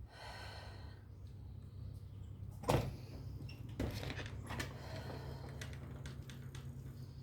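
A few scattered knocks and clunks, the loudest a little under three seconds in, over a faint low steady hum.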